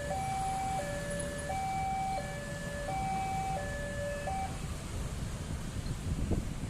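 Railway level crossing warning alarm: an electronic two-tone signal alternating steadily between a lower and a higher note about every 0.7 s, which stops about four and a half seconds in. A low rumble runs underneath, with a few gusty thumps near the end.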